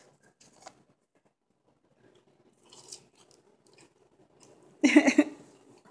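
A man chewing and crunching on homemade Parmesan French fries, with faint crunches and clicks, then a short, loud voiced "mm" of approval about five seconds in.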